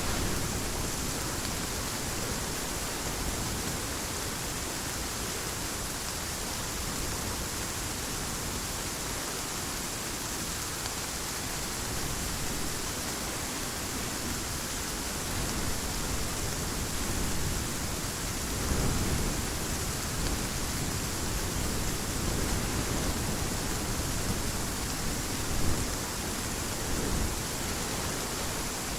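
Heavy rain falling steadily in an even hiss, with low rumbles of thunder swelling up about two-thirds of the way through and again near the end.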